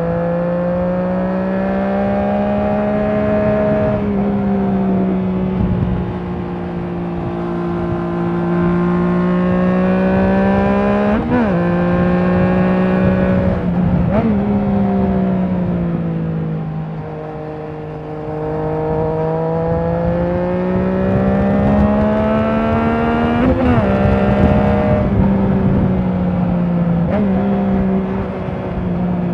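Triumph Trident 660's inline three-cylinder engine through a Leo Vince aftermarket exhaust, running under way. Its pitch climbs and falls with the throttle over several seconds at a time, with three short sharp revs: about a third of the way in, a few seconds later, and again past the three-quarter mark.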